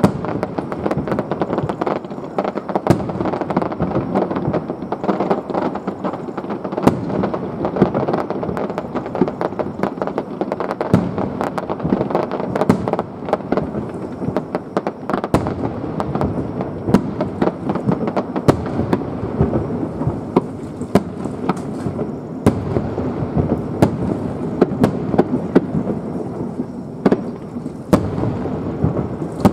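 Aerial fireworks display going off in a rapid barrage: many sharp bangs and cracks every second over a continuous rumble of shell bursts.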